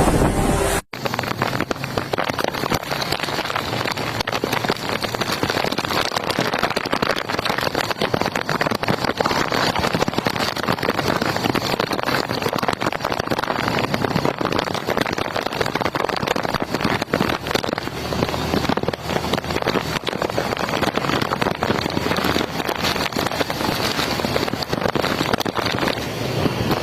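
Heavy storm rain with wind: a dense, steady rush full of fine rapid drop impacts, starting after a brief cut about a second in.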